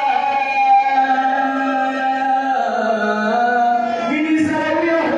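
A man's voice chanting a Karbala lament in long, held notes that slowly bend in pitch, in the sung style of a majlis recitation.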